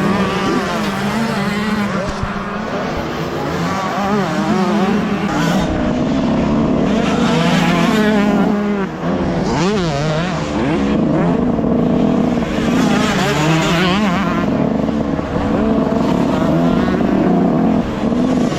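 Two-stroke motocross motorcycle engines revving and running hard, several at once, their pitch rising and falling sharply with throttle changes.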